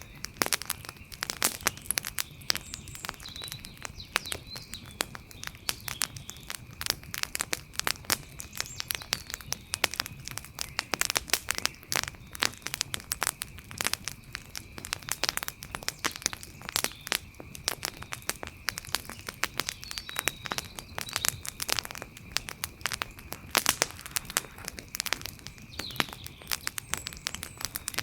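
Wood fire crackling, with dense, irregular sharp pops and snaps throughout. A steady high-pitched tone runs faintly underneath.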